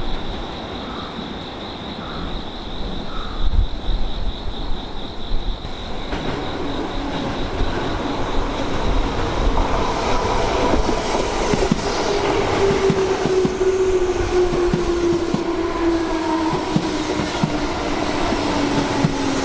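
Tobu Tojo Line electric train pulling in and braking, its motor whine falling steadily in pitch while the wheels click over rail joints, with gusty wind on the microphone. A high pulsing tone sounds for the first six seconds, then stops.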